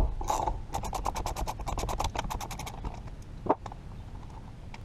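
Ratchet wrench with an 8 mm socket loosening a bolt: a sharp knock, then a quick even run of clicks, about ten a second for two seconds, and one more click a little later.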